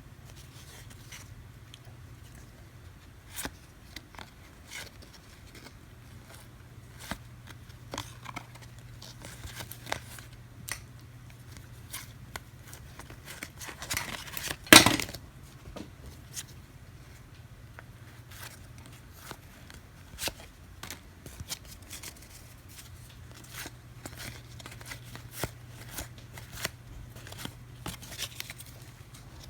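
Trading cards being handled and flipped through one by one, with soft scattered clicks and slides of card stock. About halfway through comes one louder, brief rustle or rip of paper, and a faint low hum runs under it all.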